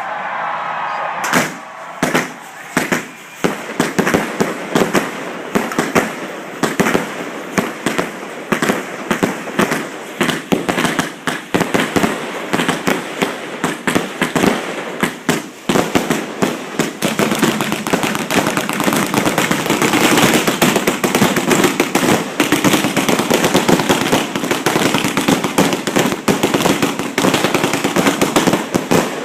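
A fireworks display at close range, a rapid string of bangs and crackles with hardly a pause between them. About halfway through they merge into an almost continuous barrage.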